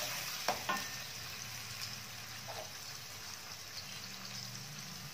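Blended red chillies sizzling steadily in hot oil in an aluminium wok as they are stir-fried, with a metal spatula clicking against the pan two or three times about half a second in.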